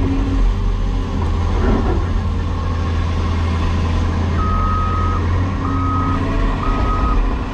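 Heavy diesel equipment engine running steadily. About halfway through, a backup alarm starts beeping, roughly once a second.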